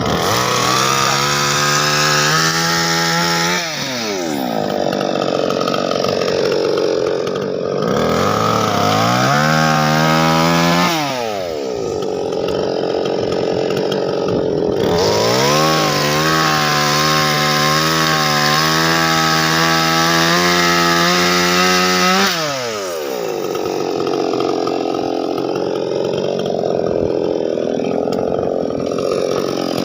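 Small engine revved up three times. Each time it is held at high speed for a couple of seconds or more, then let drop back quickly to a lower, rougher running speed; the third rev is the longest.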